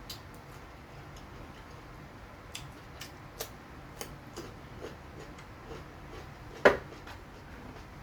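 Mukbang eating sounds: irregular small clicks and ticks while eating fried chicken thigh with rice, with one louder knock about two-thirds of the way through.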